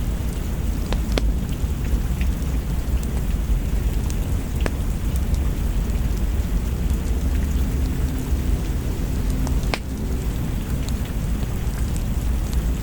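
Steady rain over a continuous low thunder rumble, with three sharp crackles from a log fire: one about a second in, one near five seconds and one near ten.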